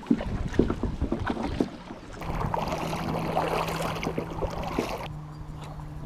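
Kayak under way: a few irregular knocks on the hull, then a steady low hum with a loud rush of water and wind from about two seconds in. The rush cuts off suddenly near the end while the hum carries on a little lower in pitch.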